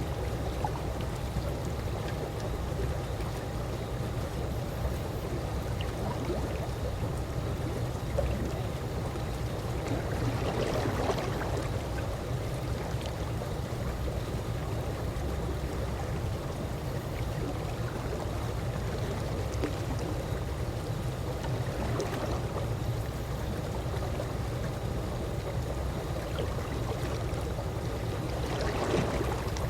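Calm swimming pool water gently lapping and sloshing over a steady low rumble, with a couple of louder swishes about ten seconds in and again near the end.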